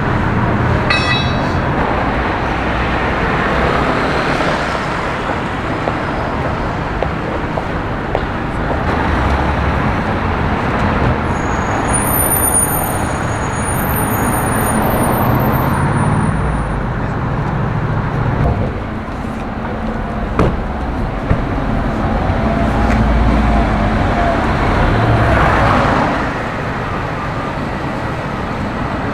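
City road traffic: cars and other vehicles passing, with engine rumble and tyre noise rising and falling. A brief high-pitched squeal comes about twelve seconds in, and two short sharp knocks come about twenty seconds in.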